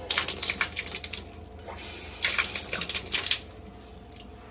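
Two bursts of rapid clicking and rattling, each about a second long, the second starting about two seconds in.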